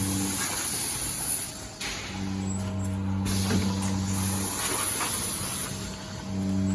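Automatic pouch filling and sealing machine running through its cycle: a motor hum that cuts in and out every couple of seconds, with stretches of high air hiss and a few sharp clicks.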